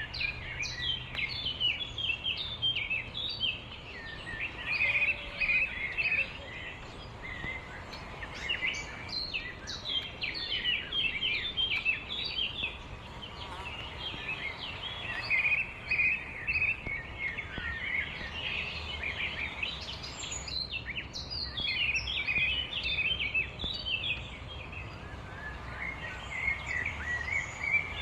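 Many small birds chirping, with short, overlapping high chirps that never stop, over a faint low background hum.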